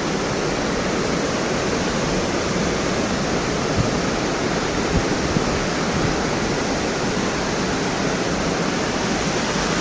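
Steady rush of a large waterfall, Thomson's Falls' 74 m drop, pounding at its base, an even noise with no breaks.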